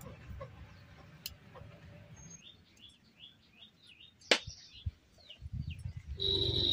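A small bird calling a quick run of short, high, falling chirps, two or three a second. A single sharp click comes about four seconds in. Near the end a louder steady high tone and low crackling start up.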